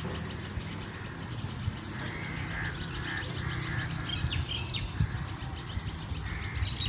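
Small birds chirping and calling over and over, over a steady low rumble of outdoor background noise.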